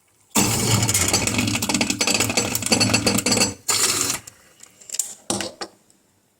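Koenig Karat espresso machine giving a loud mechanical buzzing rattle for about three seconds, then two shorter bursts. It is the bad noise the owner hears at the end of a brew, after the coffee has run.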